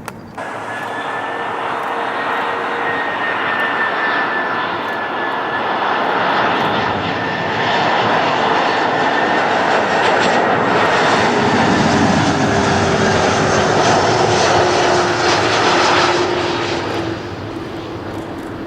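Jet airliner passing close by with engines running, the noise swelling to a peak and easing off near the end. A steady high whine sits over it, with a lower tone that slowly falls in pitch.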